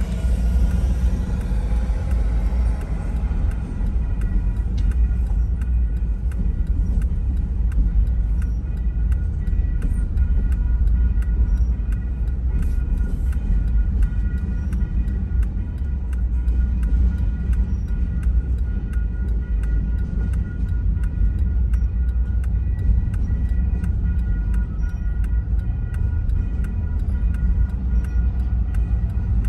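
Double-stack container freight train rolling steadily past a grade crossing, a continuous low rumble heard from inside a car's cabin, with faint steady high tones above it.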